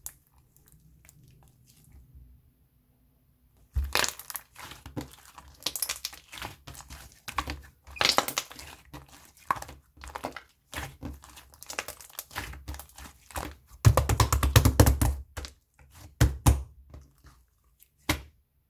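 Slime being squished and pressed by hand, making irregular sticky clicks and pops. It starts after a few seconds of near quiet and gets loudest in a dense run of squishing about 14 seconds in.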